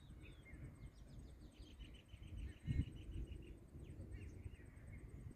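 Small birds chirping, with one giving a rapid trill of about ten notes a second in the middle, over an uneven low rumble with a thump a little before three seconds in.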